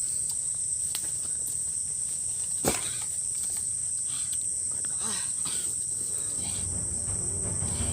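Steady, high-pitched insect chirring of jungle ambience, with a single sharp knock about two and a half seconds in.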